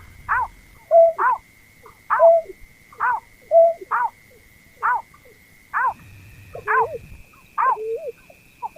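Berkik (pekung), a rice-field bird, calling over and over, about once a second. Each call is a short note that rises and falls, some followed by a lower flat note. A faint steady high tone runs underneath and steps up in pitch about six seconds in.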